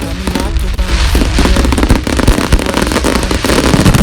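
Fireworks going off in rapid crackles and bangs, mixed with background music.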